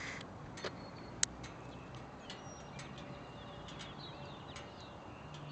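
Faint outdoor background with small birds chirping now and then, and a couple of sharp clicks about a second in.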